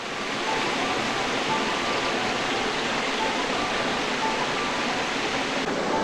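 Mountain stream rushing steadily, fading in just at the start, with faint short high notes recurring above the water.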